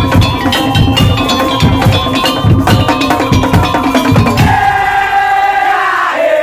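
Madurese tong-tong (ul daul) ensemble playing: fast, loud beating on wooden slit drums and drums under bright struck tones. About four seconds in, the percussion stops abruptly, leaving held, wavering melodic tones.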